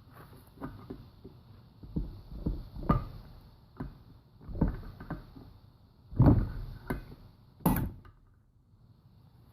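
Irregular thunks and knocks, about ten of them with the loudest about six and eight seconds in, as the valve springs on a Toyota 1ZZ cylinder head are pressed down with a socket and extension to free the valve keepers.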